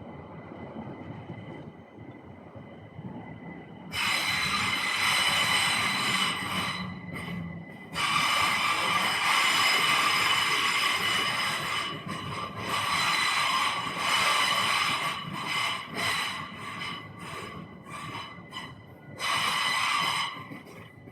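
Passing train with loud, high-pitched squealing from its wheels on the rails. The squeal starts suddenly about four seconds in, breaks off and returns several times, and flickers near the end.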